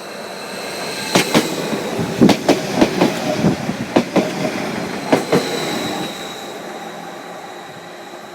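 Greater Anglia Class 755 train passing over the level crossing, its wheels clacking irregularly over the crossing and rail joints for a few seconds, then the rumble fading as it runs away.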